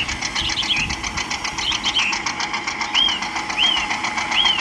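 Small motor of a homemade miniature machine running steadily with a rapid, even knocking of about eight beats a second. Three short high chirps come in the second half.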